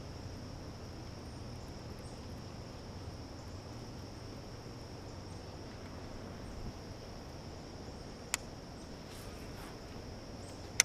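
Insects chirring steadily in one high, even tone over a faint low hum, with two sharp clicks, one about eight seconds in and one near the end.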